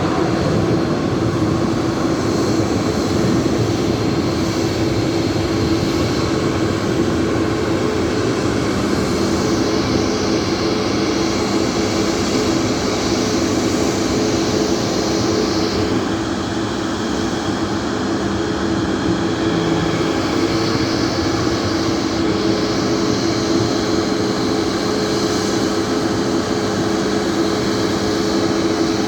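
Boeing 737 MAX 8's CFM LEAP-1B turbofan engines running at taxi power: a steady, loud jet rush with a constant low hum. A lower hum joins in about a third of the way through and drops out past the middle.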